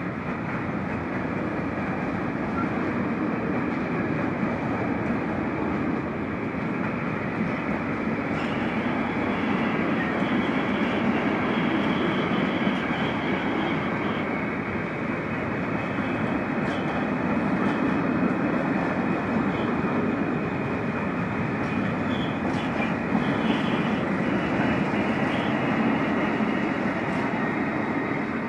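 A freight train rolling past: a steady rumble of wagon wheels on the rails. A faint high-pitched squeal comes and goes from about eight seconds in.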